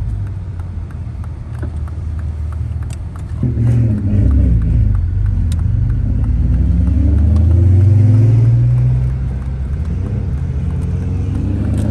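Turbocharged car engine heard from inside the cabin, cruising at first, then accelerating about three and a half seconds in with its pitch climbing. It is loudest about eight seconds in, then eases off slightly.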